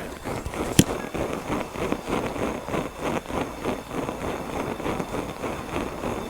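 Goshawk camp stove burning with a rapid, uneven puffing flame. There is one sharp click about a second in.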